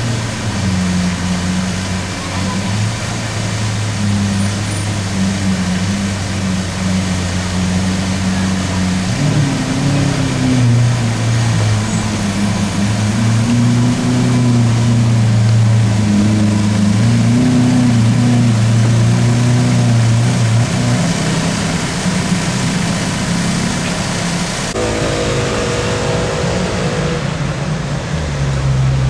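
Lamborghini Aventador SV Roadster's V12 engine running at low speed in slow street traffic, its note shifting gently in pitch. The sound changes abruptly about 25 seconds in to a different engine note.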